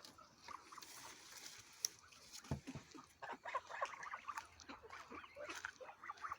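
Flock of poultry calling: scattered short clucks and peeps, with one sharp click a little under two seconds in.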